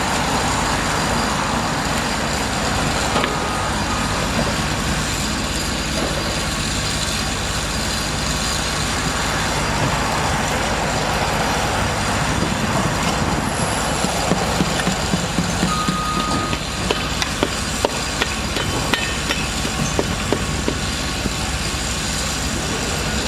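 Heavy engine running with a steady rumble, with a run of sharp knocks in the second half and a couple of brief high beeps.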